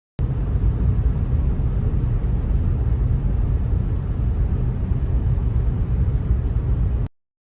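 Car driving on a rain-wet road: a steady low rumble of road and tyre noise that starts suddenly and cuts off abruptly about seven seconds in.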